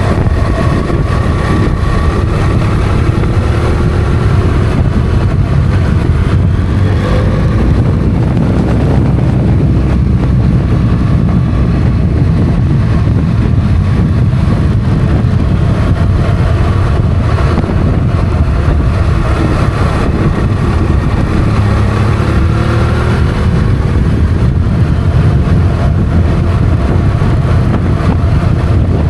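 Motorcycle engine running under way on a mountain road, its pitch rising and falling with the throttle, over a loud, steady low rumble.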